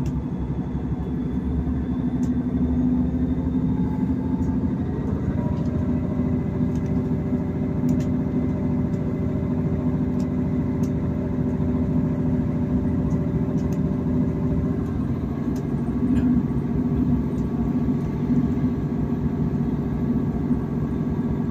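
Diesel train heard from inside the carriage as it pulls away and gathers speed: a steady engine drone with rumble from the running gear, its note changing about five seconds in and again about fifteen seconds in, with a few faint clicks.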